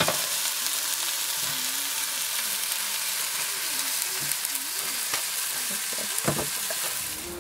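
Burger patty sizzling in hot oil in a stainless steel frying pan on a gas stove: a steady frying hiss. A couple of light knocks sound near the end.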